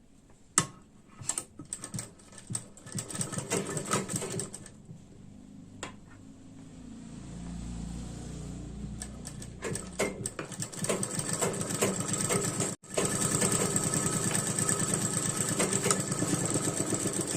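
Sewing machine stitching a folded fabric band onto a blouse sleeve edge: a few short starts in the first seconds, then it runs steadily at speed from about ten seconds in.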